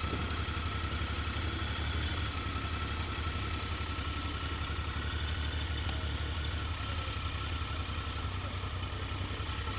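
Triumph Sprint ST 955i's three-cylinder engine running steadily at low revs, a deep even rumble that sounds like idling.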